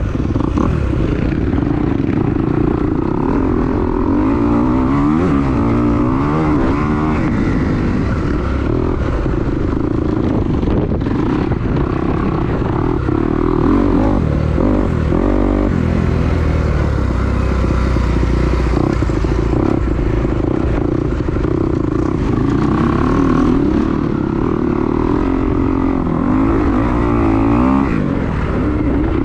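2022 Kawasaki KX250 four-stroke single-cylinder motocross engine under way, its pitch rising and falling again and again as the throttle is worked. Heavy wind rumble on the microphone runs beneath it.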